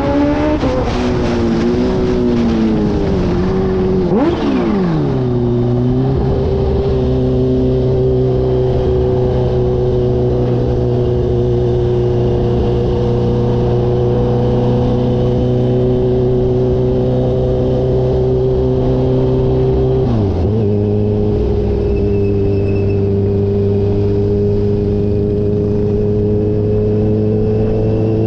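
Kawasaki H2 motorcycle engine under way: the revs change early, fall away about four seconds in, then hold at a steady cruising pitch. About twenty seconds in the revs dip briefly, as at a gear change, then settle steady again.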